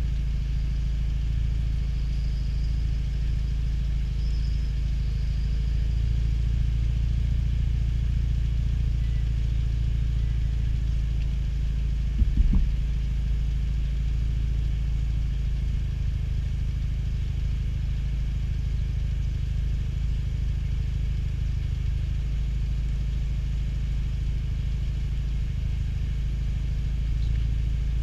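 Rally car's engine idling steadily while the car stands at the start, a low even rumble with no revving. A short knock about halfway through.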